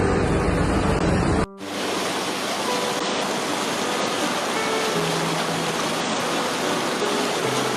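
Steady rushing of fast-flowing floodwater, an even hiss-like roar. About a second and a half in it abruptly replaces a lower, rumbling sound at a cut.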